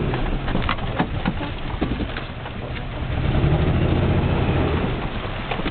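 Motor vehicle engine running while driving, a low hum that eases about two seconds in and builds again a second later, with scattered short knocks and rattles.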